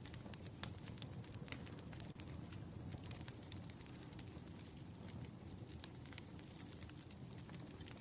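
Firewood burning: irregular crackles and pops, one sharper pop under a second in, over a steady low noise from the fire.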